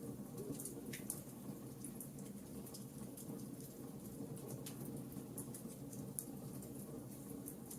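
Wood fire crackling in a fireplace: many small, sharp pops at irregular intervals over a steady low rumble.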